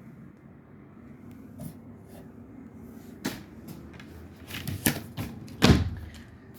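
Cupboard doors in an RV kitchen being opened and shut: a few knocks and clatters from about halfway through, ending in one loud thud of a door closing near the end.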